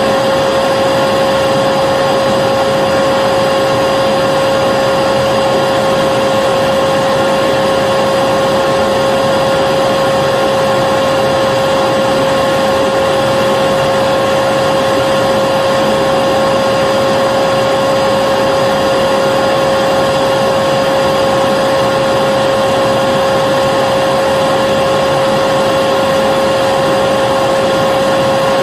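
Vacuum cleaner running steadily: an even rush of air with a constant, steady motor whine.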